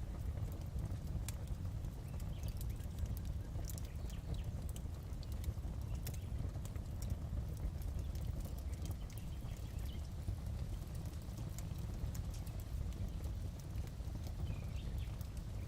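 Log fire burning in a fireplace: a steady low rumble with scattered, irregular sharp crackles and pops.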